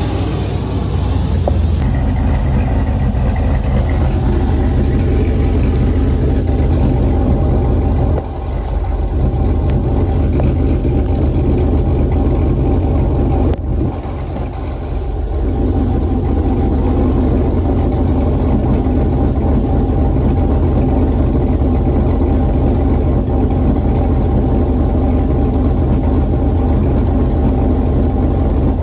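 2006 Pontiac Grand Prix GXP's 5.3-litre V8 idling steadily on E85 while warming up after a cold start, with two brief dips in loudness about eight and fourteen seconds in.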